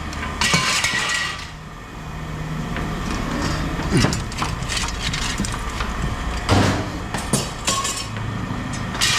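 Pieces of scrap metal knocking and clanking as they are handled and dropped, several separate impacts, over a steady low engine hum.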